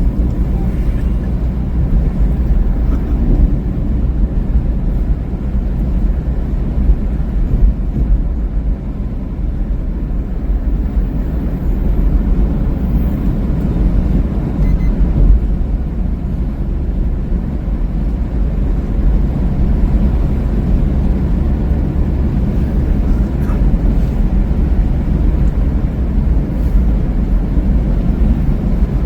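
Steady low rumble of a vehicle driving along a highway.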